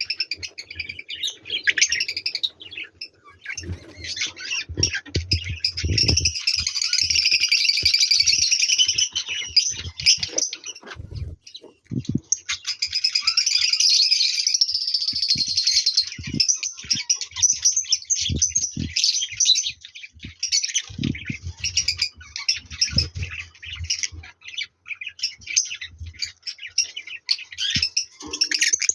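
Budgerigars chirping and warbling almost nonstop in fast, busy chatter, thickest in two long stretches. Scattered short, soft knocks are heard beneath it.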